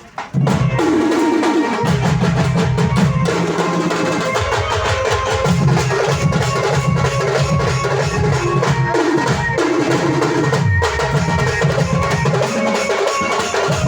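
Band music kicking in loudly about half a second in: a drum kit beat with bass drum and snare under a bass line and melodic instruments.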